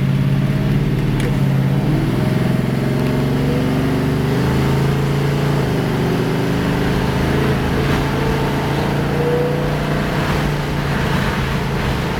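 1962 Chevrolet Nova II's 383 V8 pulling the car up to speed. Its note rises steadily for several seconds, then settles into an even cruise near the end.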